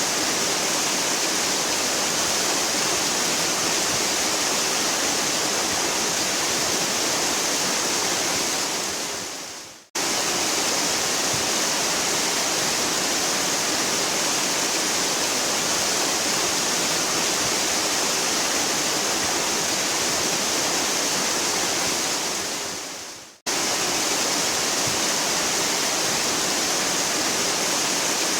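A waterfall rushing in a loud, steady, hissing roar. Twice, about ten seconds in and again about twenty-three seconds in, it fades away over a second or so and cuts straight back in at full level, where the recording has been spliced.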